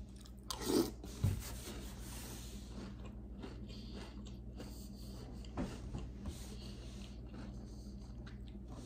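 Quiet close-mouthed chewing of a spoonful of milk-soaked cereal puffs, with a brief mouth sound under a second in as the spoonful goes in. A soft knock follows shortly after, and a couple of faint clicks come later, like the metal spoon touching the bowl.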